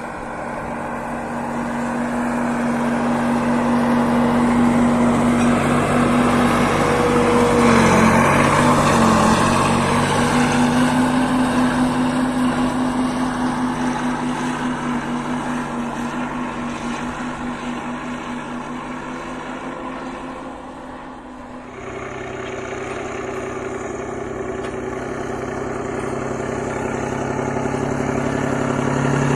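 Heavy diesel engine of a Kirovets articulated tractor working, its steady note growing louder for the first several seconds, wavering in pitch, then easing off. About two-thirds of the way through it gives way abruptly to another diesel engine with a lower note, which grows louder toward the end.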